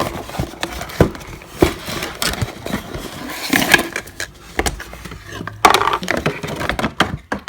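A toy playset's packaging being opened by hand: cardboard and plastic crinkling and tearing, with many small clicks and knocks.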